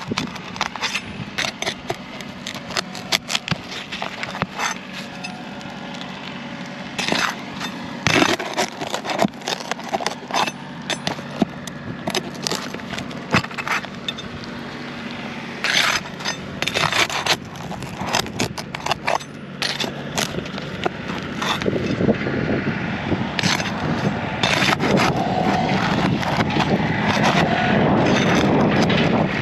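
Roofing nails being worked out of asphalt shingles: irregular scraping, clicking and cracking of metal on nail heads and shingle. A low steady hum runs underneath, and a louder steady noise builds over the last third.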